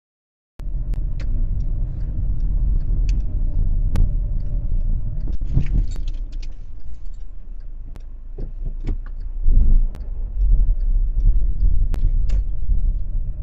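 Car driving, a heavy low road-and-engine rumble picked up by a dashcam, starting suddenly about half a second in, with scattered sharp clicks and knocks.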